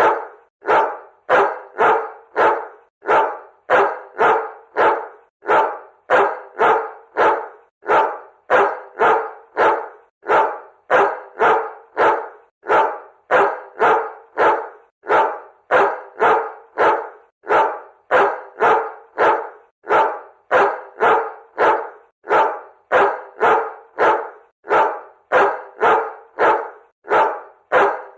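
A dog barking continuously, short sharp barks at about two a second, often in groups of two or three, at a steady loudness.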